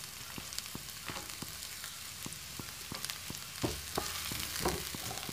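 Diced carrots sizzling and crackling in hot oil in a non-stick frying pan. A few louder scrapes come in the second half as a spatula stirs them.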